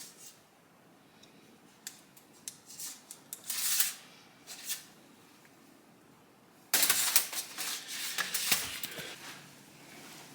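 Hand-work on small motorcycle parts and wiring: scattered clicks and rustles, with a louder flurry of clicking and rattling about seven seconds in.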